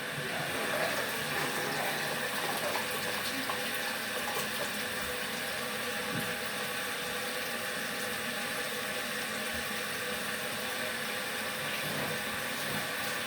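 Water running steadily into a portable washing machine's tub while the machine is set on drain and water flows back out, an even rushing with a faint steady hum.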